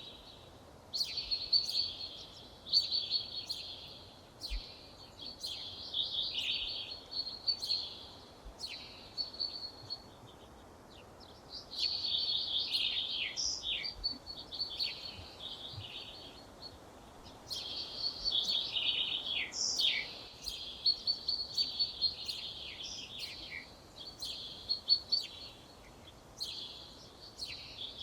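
A songbird singing rapid, high, twittering phrases. Some phrases last about a second and some run several seconds, with short pauses between them.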